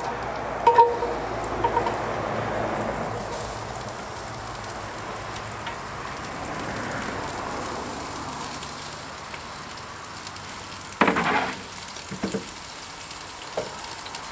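Sliced capsicum, onion and carrot sizzling as they fry in hot oil in a cast-iron camp oven, with knocks near the start as the vegetables are scraped off a wooden cutting board. A brief clatter about eleven seconds in, then a couple of lighter knocks.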